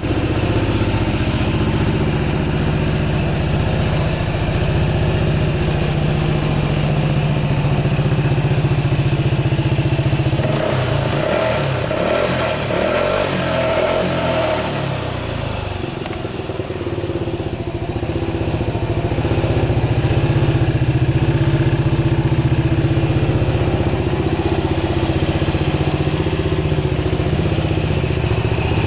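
Suzuki Burgman 200 scooter's single-cylinder engine idling steadily, its sound shifting for a few seconds midway.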